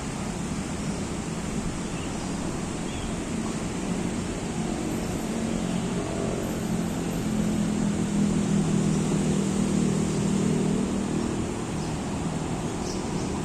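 Steady low hum of distant city traffic under the forest ambience, swelling for a few seconds about seven seconds in and easing off again near eleven seconds.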